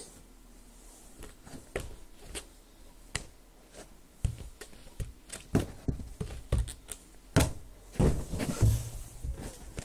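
Irregular knocks and thuds, sparse at first and busier over the second half, with a few heavier low thumps near the end.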